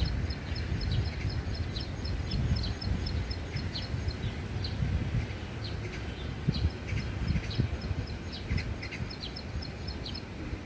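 Small wild songbird, known locally as klik-klik, calling in rapid runs of short high chips mixed with quick down-slurred notes. Low wind rumble on the microphone underneath, the loudest part of the sound.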